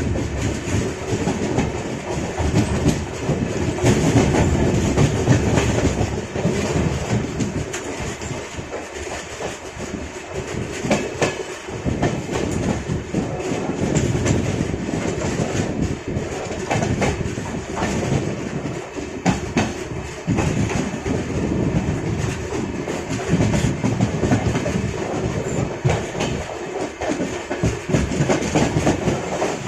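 Express passenger train running, its coach wheels clicking and clattering over rail joints, heard from on board the coach.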